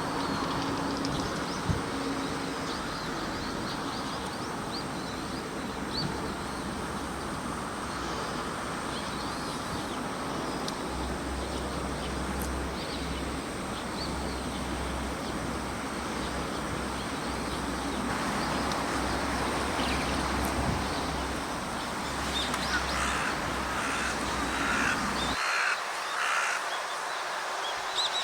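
A bird calling outdoors: near the end, a run of about five short, repeated calls over steady background noise. A low rumble under the noise cuts off suddenly shortly before the calls.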